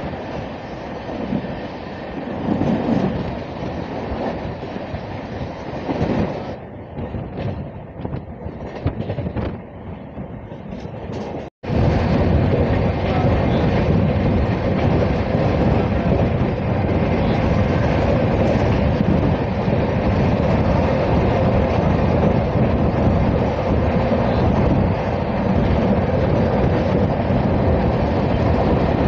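Running noise of a moving passenger train heard from its open doorway, wheels on rails, with another train passing on the next track at first. After a break about twelve seconds in, a steady, louder rumble of the train running along the line.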